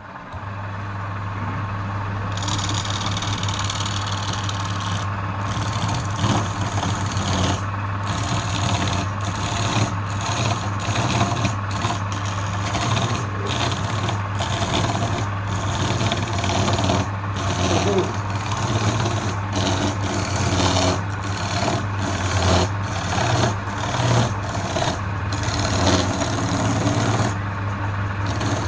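Wood lathe running with a steady motor hum while a tool rasps against the spinning wood. The rasping starts a couple of seconds in and breaks off briefly many times as the tool comes off the work.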